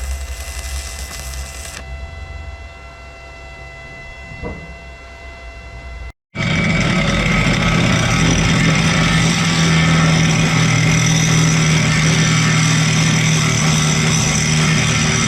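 A quiet steady hum, then, after an abrupt cut about six seconds in, a loud machine or power tool running steadily with a strong low drone.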